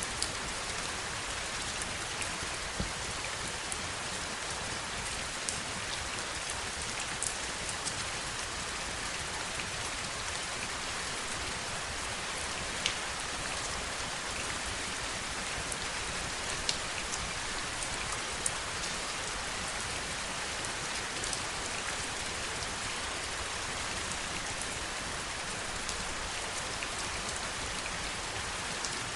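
Heavy rain falling steadily, an even hiss with scattered sharper drop ticks.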